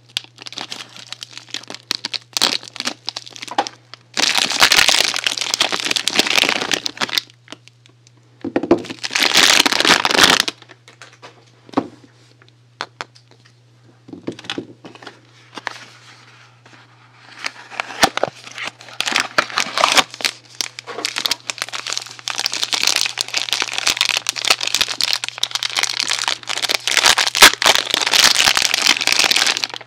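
Soap packaging being handled and unwrapped, crinkling and crackling in several long bursts with short pauses and sharp clicks between.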